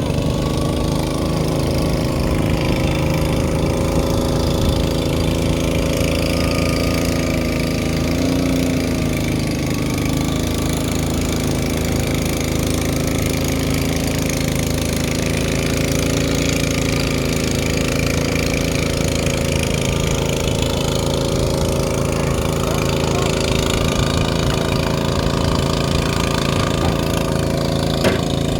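Boat engine running steadily, its pitch briefly dipping and recovering about eight seconds in.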